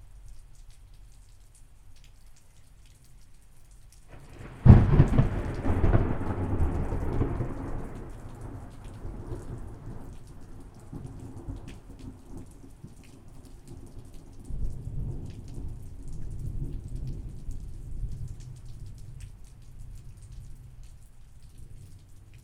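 Thunderstorm with steady rain pattering. A sudden loud thunderclap breaks about four and a half seconds in and rumbles away over several seconds, and a second, softer roll of thunder rumbles about halfway through.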